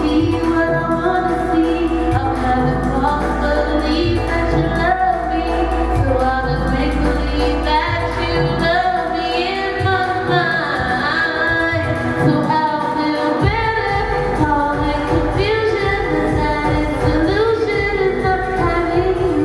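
A singer's voice over an electronic pop backing with a steady bass. The bass drops out for a few seconds about halfway through, then comes back in.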